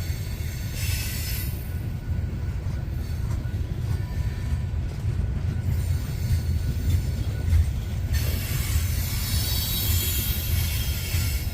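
Loaded coal train cars rolling past with a steady low rumble. High-pitched wheel squeal rises briefly about a second in and again from about eight seconds in.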